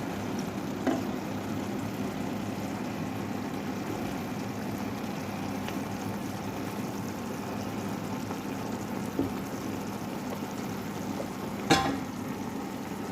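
Chicken and mushrooms sizzling steadily in a frying pan, with a few sharp knocks of a utensil against the pan, the loudest near the end.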